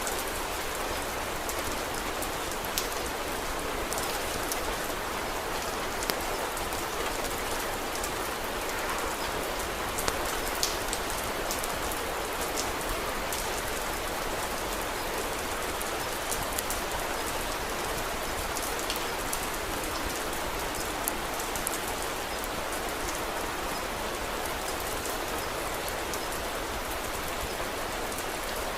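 Steady rain falling, a constant even hiss, with scattered sharp clicks now and then.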